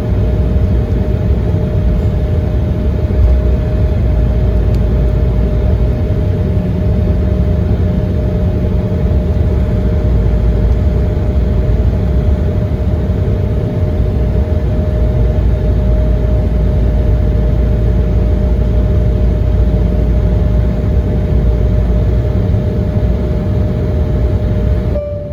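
Cabin noise inside an Embraer 170 on the ground before takeoff: a steady low rumble from its twin GE CF34 turbofans at idle, with a thin whine held on one pitch.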